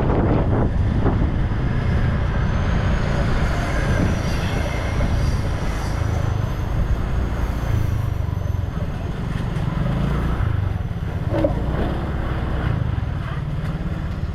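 Scooter riding along: the small engine running with road rumble and wind buffeting the microphone.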